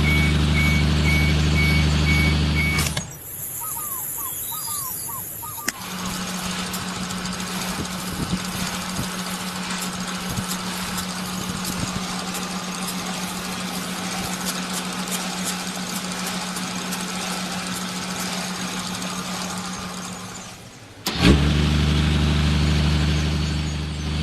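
A motor running with a steady engine-like hum, cut off after about three seconds. A long stretch follows with a steadier single-pitched hum and many small scattered clicks, and the fuller hum returns about three seconds before the end.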